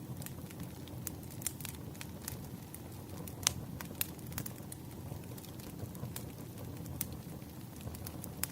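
Wood fire crackling: a steady low rumble of burning logs with scattered sharp pops, the loudest about three and a half seconds in.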